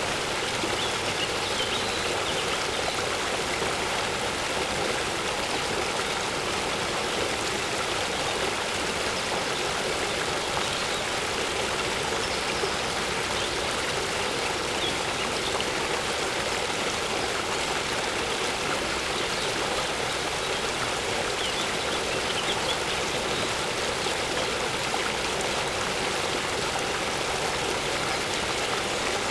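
Steady rushing of a waterfall. A few faint bird chirps come through now and then.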